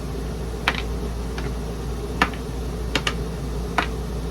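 Balls of a peg-solitaire-style board game clicking as they are moved and jumped on the board: sharp clicks about once a second, with a quick double click about three seconds in, over a steady low hum.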